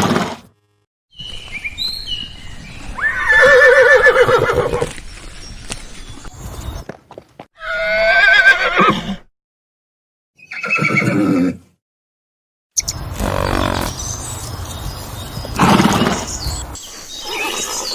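Horses whinnying: about four separate neighs, each a shaky, wavering call, split by abrupt gaps of silence.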